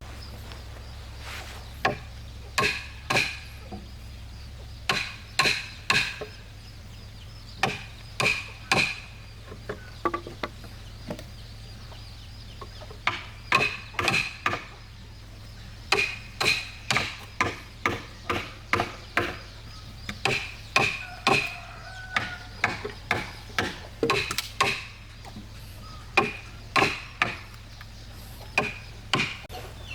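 A tool striking wood again and again, in quick groups of two to four hard blows with short pauses between, each blow ringing briefly.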